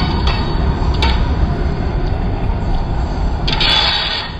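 Railway passenger coaches rolling past on the track: a steady low rumble of wheels on rail with a few sharp clicks, and a short rush of hiss near the end as the last coach goes by.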